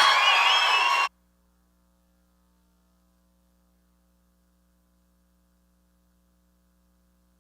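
Music with audience cheering and whoops cuts off abruptly about a second in, leaving near silence with only a faint steady electrical hum.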